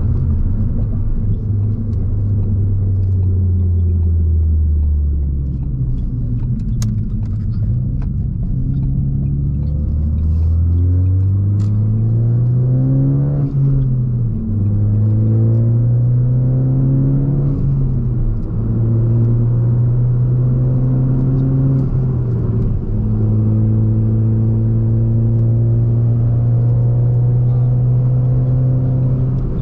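Straight-piped 2017 Ford Focus ST's turbocharged four-cylinder, with muffler and resonator deleted, heard from inside the car. The engine runs low for the first stretch, then pulls up in revs through two upshifts, about halfway and about two-thirds of the way through, before settling into a steady drone at cruise.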